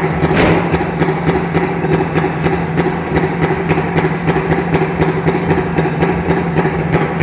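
Jawa motorcycle engine idling steadily, with an even ticking about five times a second.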